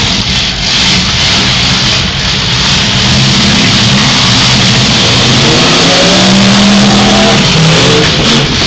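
Several demolition derby cars' engines revving hard at once, a loud continuous din with a few engines climbing in pitch about six seconds in.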